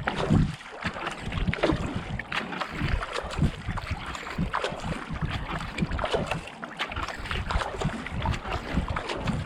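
Kayak paddle blades dipping and pulling through canal water in a steady racing rhythm of about 70–80 strokes a minute, with water splashing off the hull. Wind buffets the microphone in low gusts.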